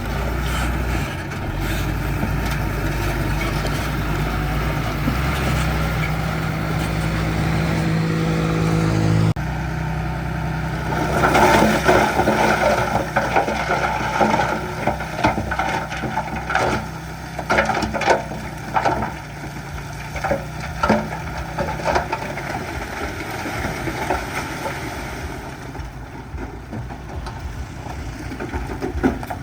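Heavy diesel construction machine engine running under load, its pitch rising slightly. After an abrupt cut comes a long run of clattering and crunching as stone is pushed or tipped, with the engine running underneath.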